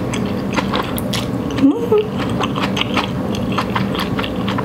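Close-miked chewing of chewy udon noodles: many quick wet mouth clicks and smacks, several a second, with a brief hummed "mm" near two seconds in.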